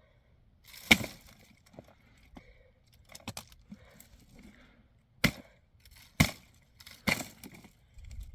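Firewood being chopped or broken up: about five sharp wooden cracks at uneven intervals, the loudest about a second in.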